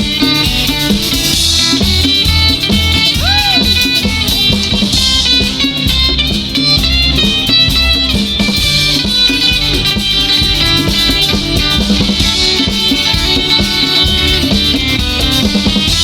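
Live rock band playing an instrumental passage of the song, guitar to the fore over bass and drums.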